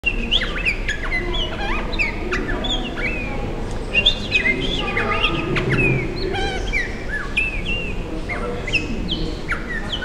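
Several birds chirping and whistling at once: a dense, overlapping chorus of short calls that slide up and down in pitch.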